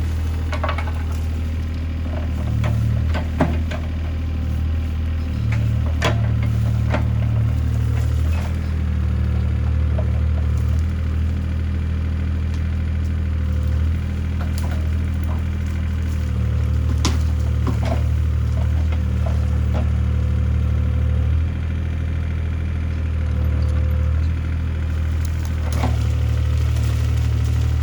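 Mini excavator's diesel engine running steadily, its note stepping up and down every few seconds as the hydraulics take load, with scattered sharp knocks and cracks.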